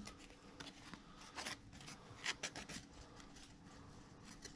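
Faint, scattered rustling and light ticks of trading cards and card-pack wrappers being handled.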